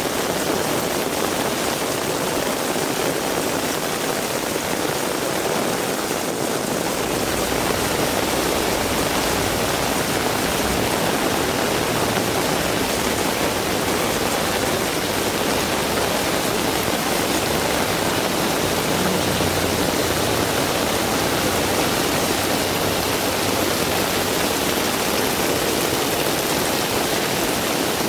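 Heavy rain falling steadily, an even dense hiss. A low rumble runs underneath from about seven seconds in until a few seconds before the end.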